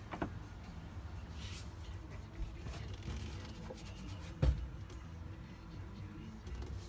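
Rubbing and handling noises in a truck cab over a low steady rumble, with a few light knocks at the start and one louder thump about four and a half seconds in.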